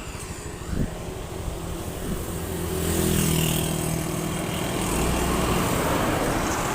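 A motor vehicle engine running with road noise, growing louder about halfway through.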